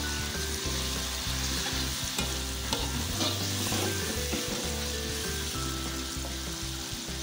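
Squid and meat pieces sizzling in hot oil and spice paste in a wok, with a metal spatula stirring and scraping them around the pan again and again.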